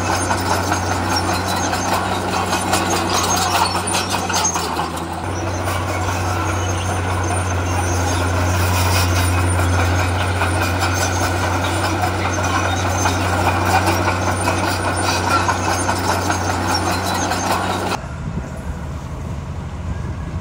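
Heavy diesel earthmoving machinery running steadily under work, a deep engine hum with a shift in its note about five seconds in. Near the end the sound drops abruptly to a quieter, rougher engine noise.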